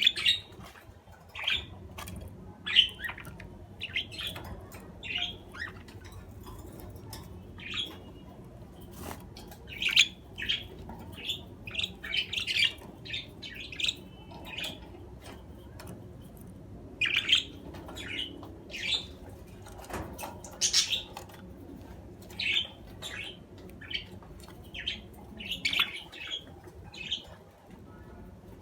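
Budgerigars chirping: many short, sharp calls coming in irregular runs, with a brief lull about halfway through.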